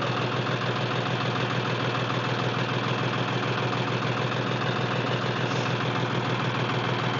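John Deere 5310 tractor's diesel engine idling steadily with an even, rhythmic beat.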